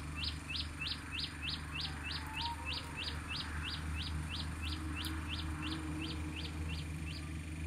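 A bird calling a run of about twenty short, high, rising notes, about three a second, that grows fainter and stops about a second before the end.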